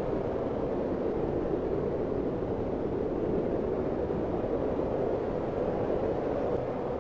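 Steady blizzard wind blowing, an even rushing noise centred low-mid with a low rumble beneath.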